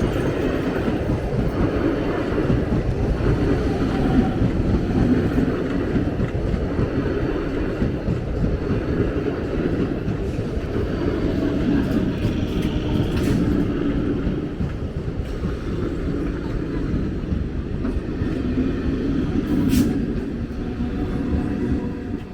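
Train running past on the rails, a steady heavy rumble that eases off near the end.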